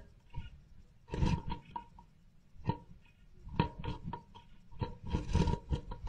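Eurasian blue tit clambering in through a nest-box entrance hole: bursts of claws scratching and knocking on the wooden box, with wing flutters, about a second in, midway and near the end.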